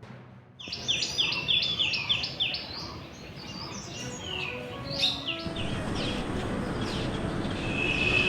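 Birds singing outdoors: a quick run of about four falling whistled notes a second, then scattered chirps. From about halfway through, a steady rushing noise rises under them.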